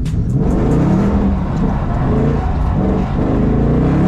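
S550 Mustang engine through an X-pipe with a muffler delete, heard from inside the cabin, revving up and falling back several times as the throttle is worked on and off.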